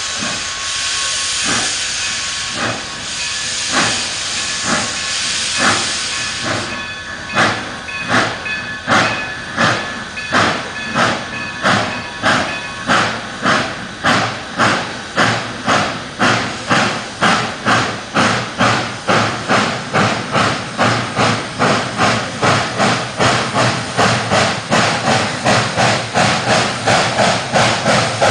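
2-8-0 steam locomotive No. 40 hissing steam, then starting away: its exhaust chuffs begin slow, about one every 0.7 s, and steadily quicken to about three a second as the train gathers speed.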